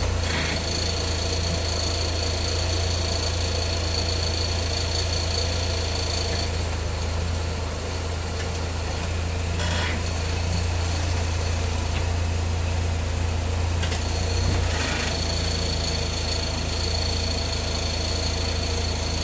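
2004 Saab 9-3 2.0T turbo four-cylinder engine idling steadily with a rattle, which the owner takes for a bad accessory belt tensioner. A thin high whine runs through the first third and again from about two-thirds in.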